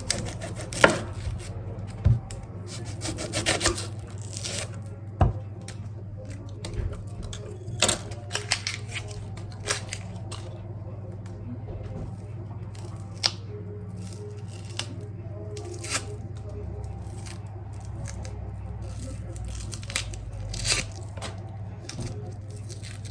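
Household handling noises: scattered taps and knocks with brief rustling, at irregular moments over a steady low hum.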